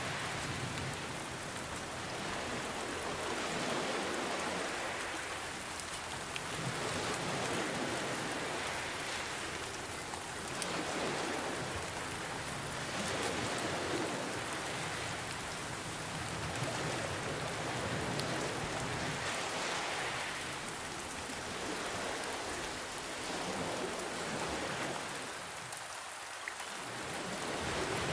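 Steady rain pattering, mixed with ocean waves that swell and ease every few seconds.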